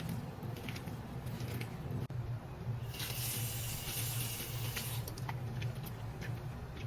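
Scattered light clicks and knocks over a steady low hum, with a burst of hissing about three seconds in that lasts under two seconds.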